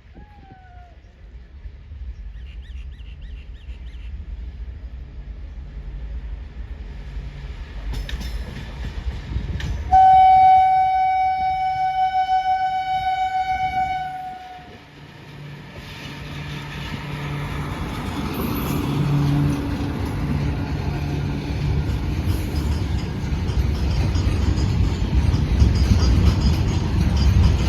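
Train horn blown once for about four seconds on a single steady note, the loudest sound here. Around it, the rumble of the train builds steadily louder as it picks up speed.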